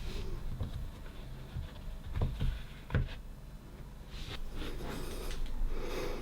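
Kinetic sand being cut and handled with a knife or cutter: a few soft taps about two to three seconds in, then short scraping strokes.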